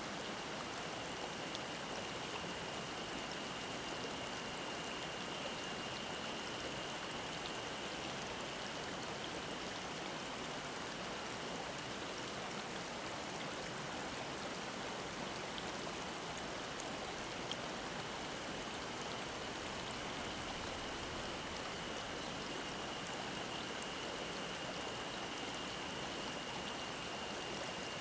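Mountain stream babbling steadily over rocks, with a cicada's steady high drone behind it that weakens in the middle and swells again near the end.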